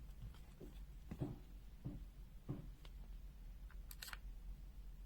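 Faint handling sounds of multimeter test probes being set on a resistor: a few soft knocks, then a sharper click about four seconds in, over a low steady hum.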